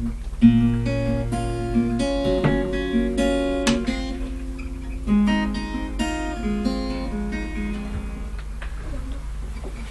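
Acoustic guitar playing a few plucked and strummed chords, which ring and die away near the end.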